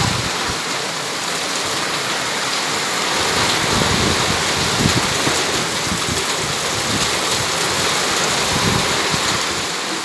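Heavy tropical downpour, rain pouring steadily and hard onto surfaces, with brief low rumbles now and then.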